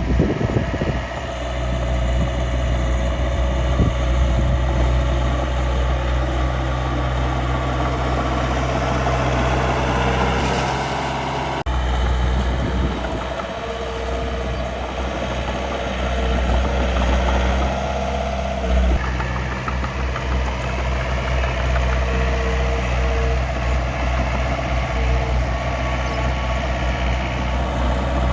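Miniature dump truck and bulldozer running with a steady, low engine-like drone, as of an idling diesel. The sound changes abruptly about twelve seconds in, then carries on at the same steady level.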